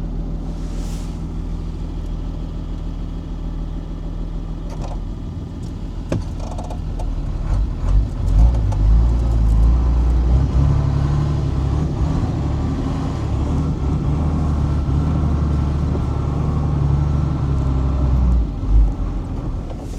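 Unimog truck's diesel engine running while driving off-road, steady at first, then louder and heavier from about eight seconds in as it works harder, easing off near the end.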